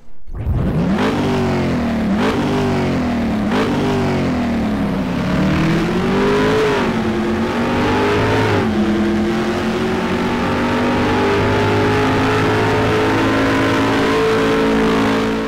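Car engine accelerating hard through the gears: the pitch climbs and drops at each of five shifts, the first three quick and the last two longer, then holds a steady high note at speed.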